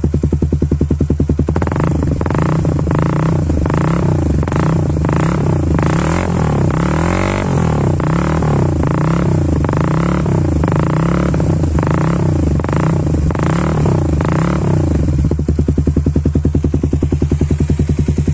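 Honda CB150R's 150 cc single-cylinder engine through a DOS Muffler full-system exhaust, idling, then given a quick run of light throttle blips for about thirteen seconds before settling back to a deep, bassy idle.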